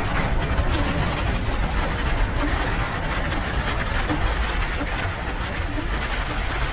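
Steady rain hiss with a constant low rumble underneath.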